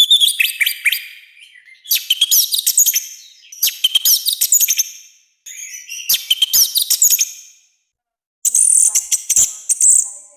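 Orange-headed thrush (anis merah) singing loud, rough phrases of rapid high notes and quick slurs, in five bursts of one to two seconds each with short silences between them. The last phrase is harsher and buzzier than the others.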